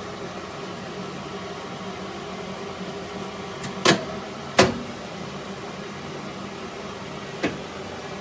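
Microwave oven running with a steady hum, broken by three sharp clicks: two close together about four seconds in and one more near the end.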